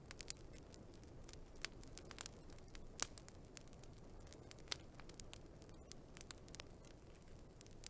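Wood fire crackling: scattered sharp pops and snaps at irregular intervals, the loudest about three seconds in, over a faint steady low rumble of the burning.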